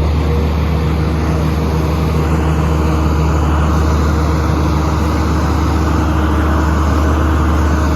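A steady low hum and rumble, as of an engine or machine running, unchanging throughout.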